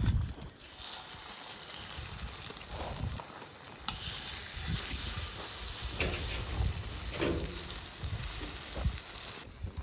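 Food sizzling and frying in oil on a hot camping pan, a steady hiss that starts about a second in and stops just before the end.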